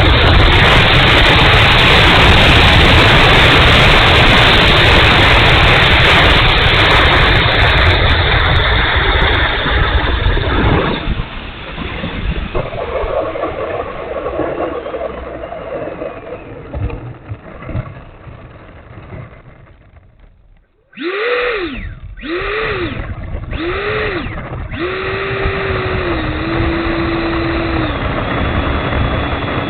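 Electric ducted fan of an E-flite F-16 70 mm RC jet: a loud rushing noise for about the first eleven seconds, then quieter running. About twenty seconds in come three short whines, each rising and falling in pitch as the throttle is blipped. A steady whine follows, stepping down in pitch twice.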